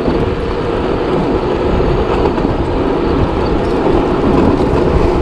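Steady rumble of a moving vehicle: engine and road noise running evenly, with no sudden sounds.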